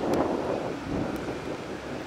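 Steady rumble of a train moving through a station, with wind buffeting the microphone.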